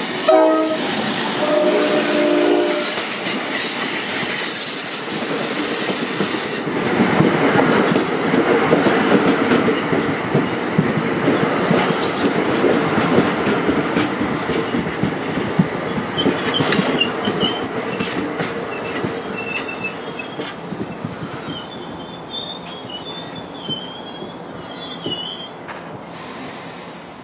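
NJ Transit ALP-46 electric locomotive passing close with its multi-tone horn sounding for the first three seconds. Its Multilevel coaches then roll by, clacking over the rail joints, and their wheels squeal high and chirping through the last third as the train slows into the station.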